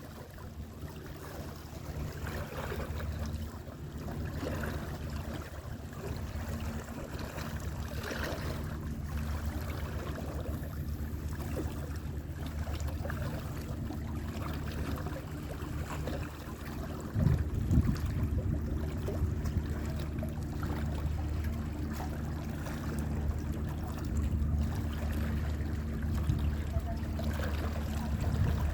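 Sea water washing and sloshing with a steady low rumble underneath, swelling into a louder low rush a little past halfway through.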